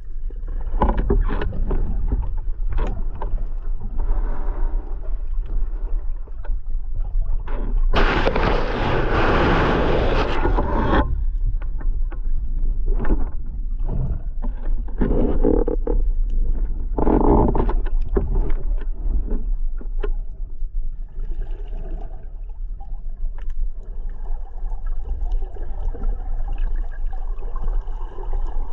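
Muffled water sounds on an action camera: a steady low rumble with irregular knocks and scrapes, and a dense rushing hiss of about three seconds starting around eight seconds in.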